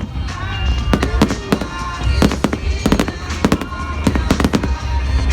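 Fireworks going off in a rapid, irregular series of sharp bangs and crackles, with music playing alongside.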